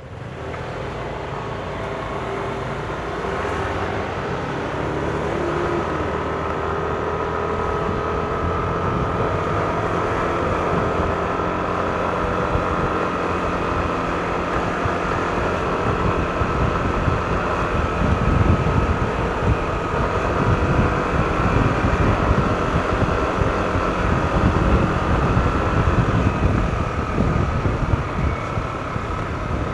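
Yamaha NMAX scooter's single-cylinder engine and belt drive getting louder as it pulls away, then running steadily at road speed with a faint whine, while wind buffets the microphone, gusting harder in the second half.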